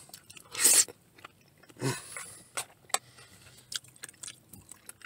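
A person chewing a mouthful of rice and egg, with wet mouth clicks and lip smacks scattered through. A loud breathy rush comes about half a second in, and a brief low hum near two seconds.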